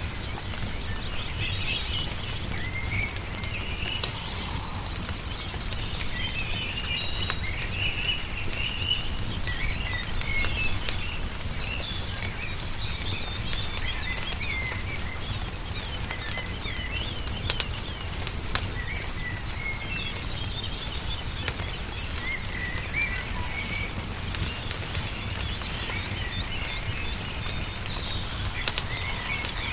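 Songbirds chirping and twittering on and off over a crackling wood fire, whose sharp pops and snaps come every second or so, a few louder than the rest, above a steady low rumble.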